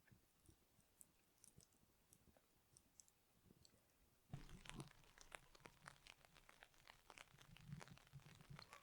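Someone chewing crunchy food close to the microphone. Faint scattered clicks at first, then about four seconds in the chewing starts, a dense run of crunches with soft low thuds.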